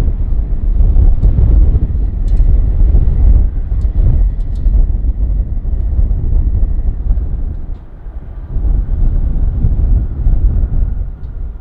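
Low, heavy rumble of a jet airliner's engines, mixed with wind gusting on the microphone. The level rises and falls, then drops away suddenly at the very end.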